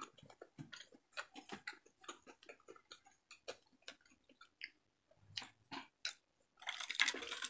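A person chewing food close to the microphone: many soft, irregular mouth clicks and smacks. A short, louder rush of noise comes near the end.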